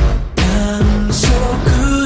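Japanese pop-rock song in an 8D panning mix: a male singer over heavy drums and bass, with the vocal line coming in about half a second in.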